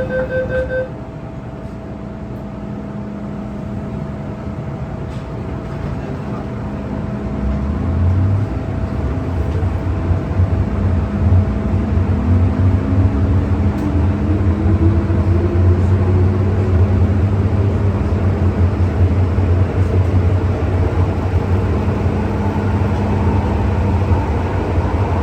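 MTR M-Train electric multiple unit pulling away from a station. A repeating door-closing beep ends about a second in; then the running rumble builds from about eight seconds in, and a whine rises steadily in pitch as the train accelerates.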